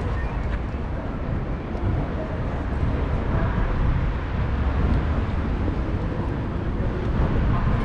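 Steady low rumble of a train with a hiss above it.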